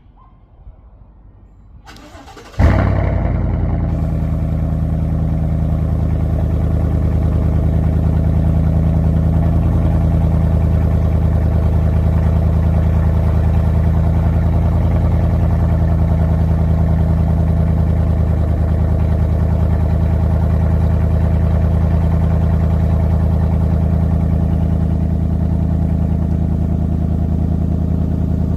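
2019 Chevy Silverado 5.3-litre V8 cold-starting through an MBRP muffler delete kit, with the resonators taped and the exhaust valve open. The starter cranks briefly about two seconds in, the engine catches with a loud flare, then settles into a steady idle.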